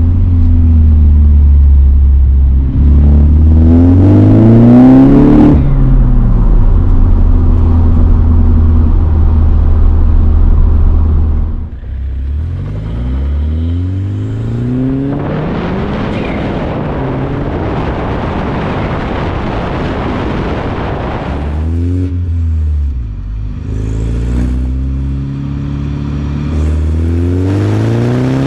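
BMW 120i's B48 2.0-litre turbocharged four-cylinder, running a Stage 2 tune, pulling hard through a manual gearbox: the engine note climbs in pitch several times and drops back at each gear change. The first part is heard from inside the cabin. After a cut a little under halfway, it is heard from outside the car, with a heavy rush of wind and road noise at speed in the middle stretch.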